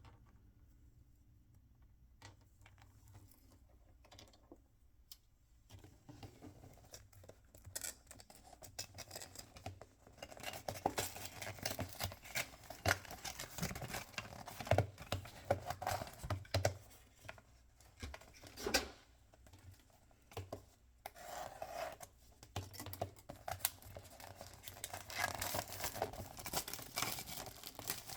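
Toy packaging being torn open and crinkled by hand: a run of rips and rustles that starts after several quiet seconds, with a short lull partway through.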